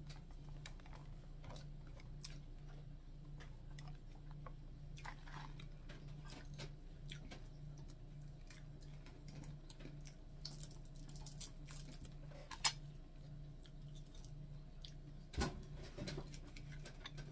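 Someone chewing fried dried fish and rice, with scattered small clicks of a spoon against a plate and a couple of sharper knocks in the second half. A steady low hum sits underneath.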